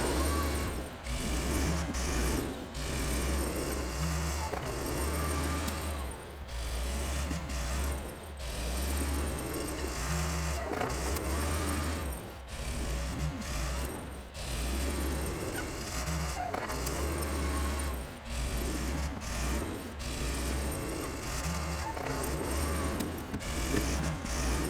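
Vintage Volvo tractor's engine running under load while plowing snow. Its low drone swells and dips about every two seconds, with a steady hiss over it.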